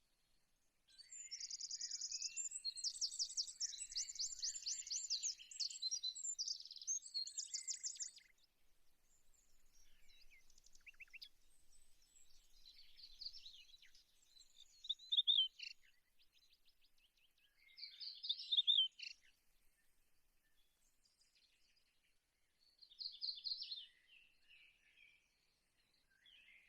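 Small songbirds chirping and singing. A long run of rapid high trills comes first, then shorter bursts of song every few seconds.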